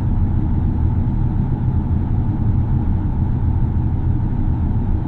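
A steady, deep vehicle rumble.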